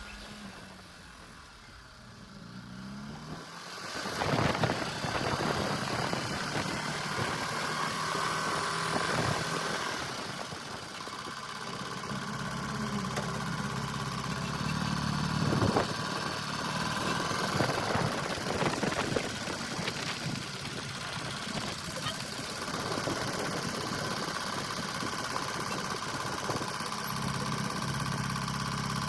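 Ural sidecar motorcycle's air-cooled flat-twin engine on the move: quiet at first, its pitch rises about three seconds in, and then it runs on steadily, rising and falling in pitch with the throttle.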